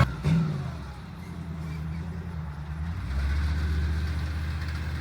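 Motor vehicle engine running low and steady, growing louder about three seconds in.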